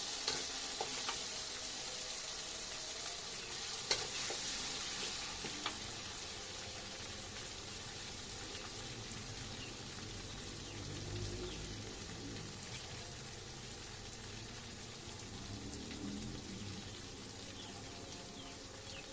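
Food sizzling in hot oil in a pan while being stirred. Sharp taps of a utensil on the pan come in the first six seconds, and the sizzle then grows weaker.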